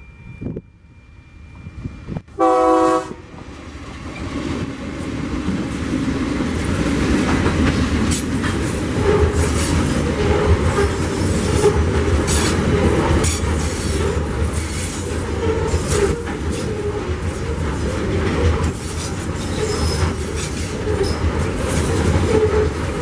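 TasRail TR-class diesel locomotives sound one short horn blast for the road crossing about two and a half seconds in, then pass, followed by a long string of coal hopper wagons rolling by with steady rumbling and rapid clicking of wheels over the rail joints.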